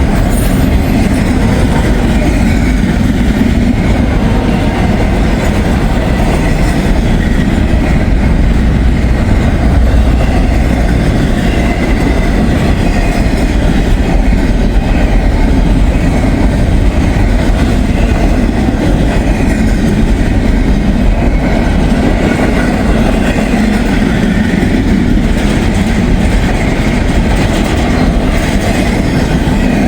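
Freight train rolling past at close range: a steady, loud rumble of wheels on rail with clickety-clack over the rail joints.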